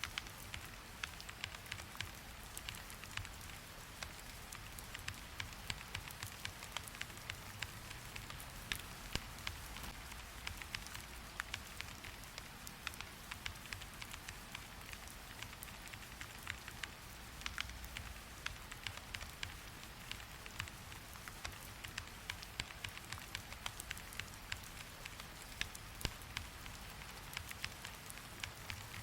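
Steady rain with a dense, irregular patter of small ticks.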